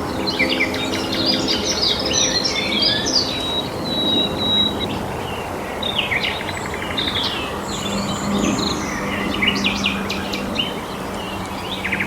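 Several birds chirping and calling at once, short overlapping notes, with a rapid rattling trill about six and a half seconds in.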